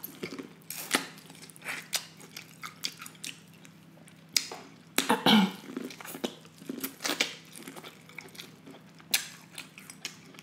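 Biting and chewing corn on the cob close to the microphone: irregular wet crunches and mouth clicks, the loudest about five seconds in.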